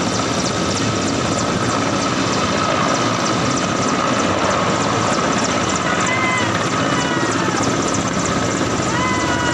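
Helicopter flying close by: a dense, steady rotor chop with a constant whine. A few short falling calls come through about six and nine seconds in.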